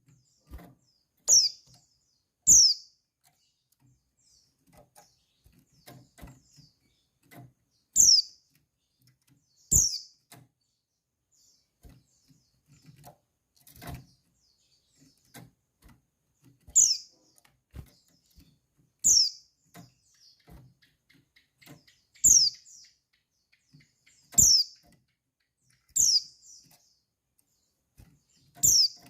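A female white-eye (pleci) giving short, high calls that fall in pitch, about ten of them at uneven gaps of one to three seconds. Faint clicks come between the calls.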